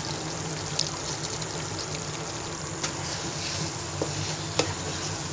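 Chicken curry with freshly added mung dal sizzling in a kadai as a spatula stirs it through, with a few light clicks of the spatula against the pan.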